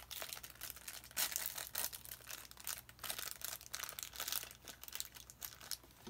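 Small plastic packaging crinkling and tearing in quick irregular crackles as toy accessory packets are unwrapped by hand.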